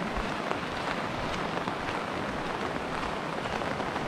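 Steady rain falling, with many single drops ticking close to the microphone.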